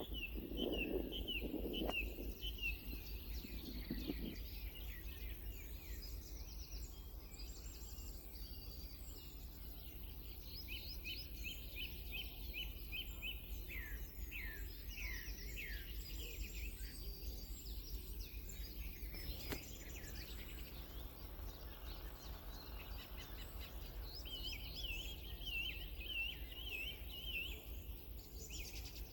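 Wild birds singing: several bursts of quick, repeated high chirping notes, with a lower pulsing call in the first few seconds and a steady low rumble underneath.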